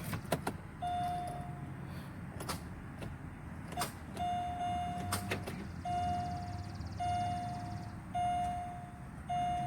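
Car warning chime beeping at a steady pitch, each beep just under a second long and repeating about once a second, with a few sharp clicks in between.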